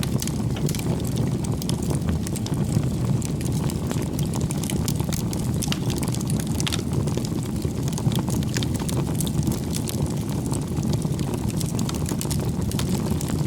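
Wood campfire burning, with a steady low rush of flames and frequent small crackles and pops from the burning firewood.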